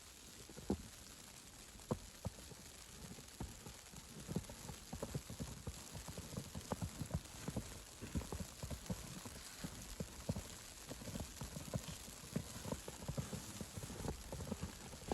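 Footsteps in snow, a few at first and then a quick, uneven run of steps from about three seconds in, over a faint steady hiss.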